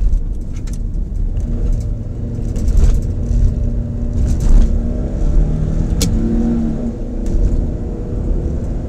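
Nissan X-Trail 2.5-litre four-cylinder engine heard from inside the cabin under hard acceleration, revving up to about 4,000 rpm and holding that pitch as the car gains speed. A single sharp click sounds about six seconds in.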